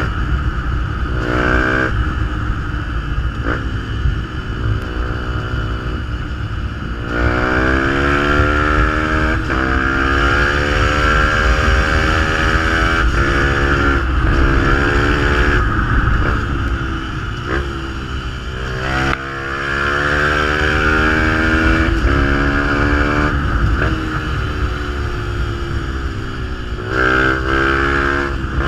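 Fantic 125 supermotard engine through a GPR exhaust, accelerating repeatedly through the gears. The pitch climbs with each pull and drops back at every shift.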